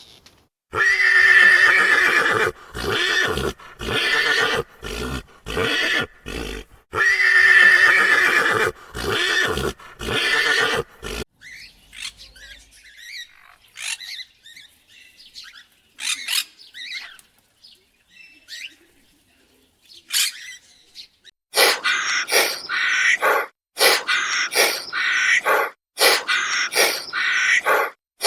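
Animal calls: a long, loud wavering call followed by a run of short calls, the same again about six seconds later, then a quieter stretch and, near the end, a quick series of short calls about two a second.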